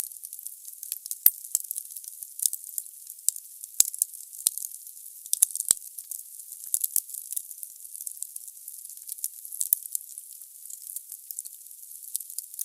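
Wood logs burning in a fireplace, crackling steadily with a soft hiss. A few sharper pops stand out in the first half.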